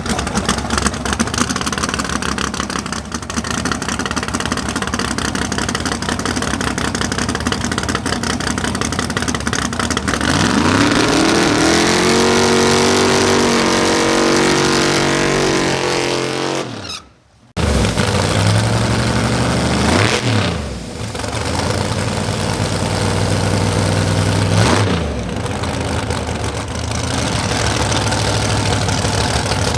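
Drag race car engines at full throttle, loud and continuous. About ten seconds in, one engine's pitch climbs steeply and holds high. The sound cuts off sharply for about half a second, then engine tone returns and dips and recovers twice as the engine shifts through its gears.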